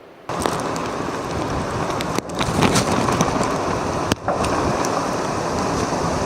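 Storm winds of a nor'easter blowing hard over the microphone, a loud dense rush of noise scattered with small sharp ticks, likely wet snow striking. It starts abruptly just after the beginning and drops out briefly twice.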